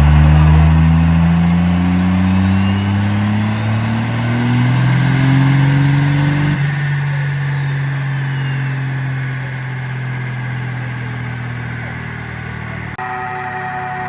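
Diesel pickup truck engine accelerating hard, its pitch climbing steadily for about six seconds with a rising turbo whistle over it. The driver then lets off: the engine drops to a steady lower note and the turbo whistle winds down.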